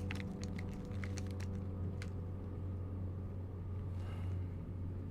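Steady low hum of an airliner cabin after landing, with a few light clicks and taps in the first two seconds.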